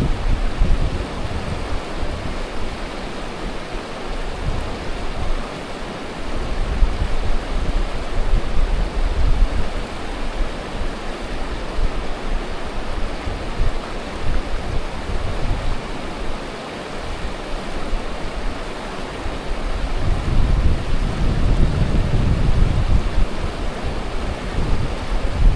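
Strong wind buffeting the microphone in gusts, with low rumbles near the start, about a quarter of the way in and again from about 20 seconds on, over a steady rushing hiss.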